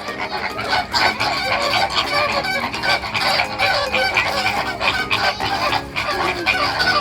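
A crowd of poultry calling together: many clucks and honk-like calls overlapping continuously.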